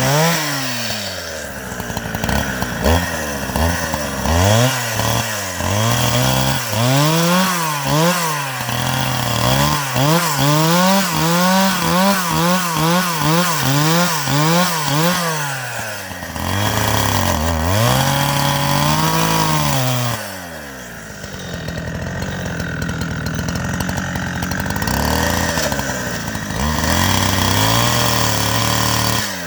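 Two-stroke chainsaw engine revved up and down over and over, about once a second. Near the end it drops back and runs more evenly.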